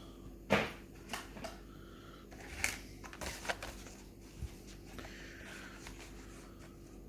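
Plastic blister packaging and card of a carded die-cast toy car being handled: a handful of sharp crinkles and clicks over the first four seconds or so, the loudest about half a second in, then only a low steady room hum.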